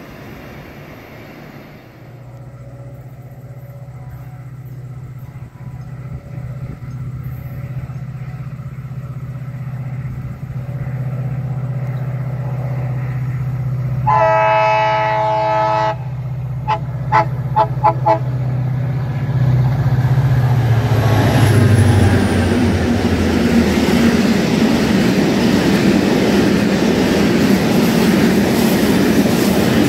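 A diesel train approaching, its low engine hum growing steadily louder, sounds one long horn blast about halfway through and then four short toots. It then passes close by with loud rail and wheel noise.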